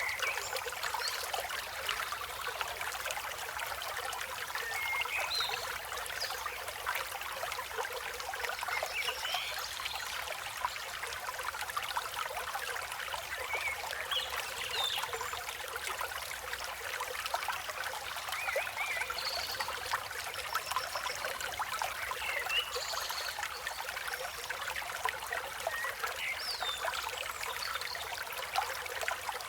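River water flowing steadily, with short, high bird chirps scattered over it.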